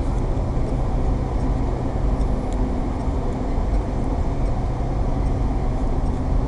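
A train running through the station: a steady low rumble with a constant hum underneath.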